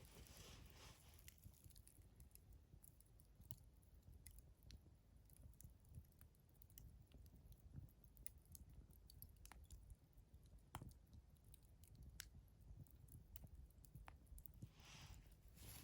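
Wood fire crackling faintly, with scattered sharp pops at irregular intervals over a low rumble. A soft rustling sound rises near the end.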